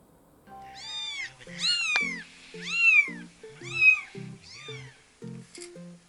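A 24-day-old kitten mewing: about five high-pitched cries, each rising and falling in pitch, roughly a second apart, over soft background music.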